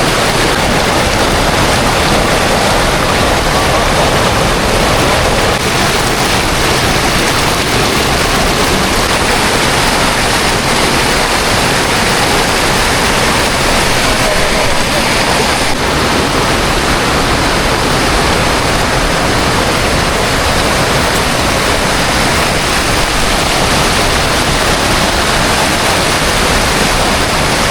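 Mountain river rushing steadily, a loud, unbroken roar of flowing water.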